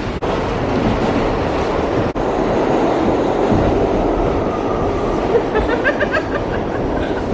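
New York City subway car of the 4 train running along the track, heard from inside the car: a steady, loud rumble, with a short run of rapid clicking about six seconds in.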